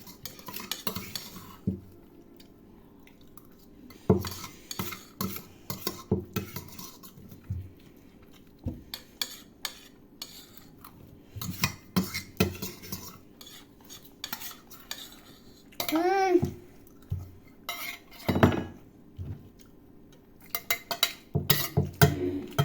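Cutlery clinking and scraping against plates in irregular bursts as noodles are eaten fast, with a brief high vocal sound about two-thirds of the way through.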